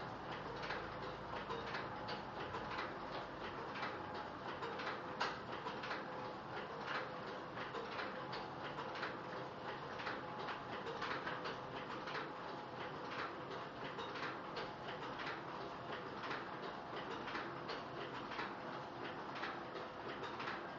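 Komori Sprint S-26 sheet-fed offset printing press running steadily, with a continuous fast clatter of sharp clicks over a mechanical hum.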